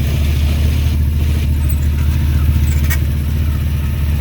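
A vehicle engine idling steadily with a low, even hum, and one brief click about three seconds in.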